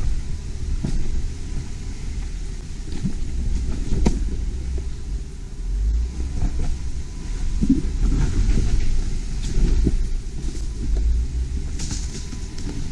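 Four-wheel-drive vehicle crawling over a rough trail: steady low engine and drivetrain rumble with scattered knocks and rattles from the body and suspension.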